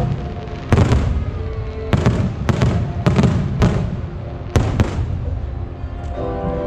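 Aerial firework shells bursting overhead: about ten sharp bangs at irregular intervals, with a low rumble between them. Music plays underneath and comes up near the end.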